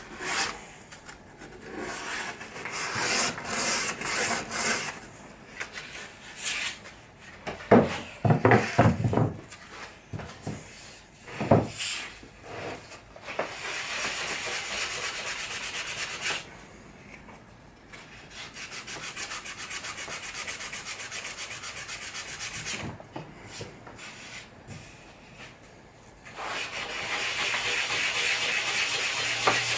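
Sanding a pallet-wood cabinet door frame: rubbing strokes of sandpaper on wood, rhythmic at times and steady at others, with a few sharp knocks in the first half.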